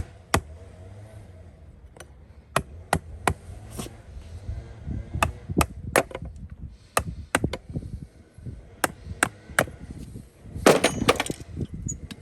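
Farrier's hoof nippers cutting through hoof wall: a string of sharp cracks and snaps, often two or three in quick succession, with a louder burst of crunching near the end.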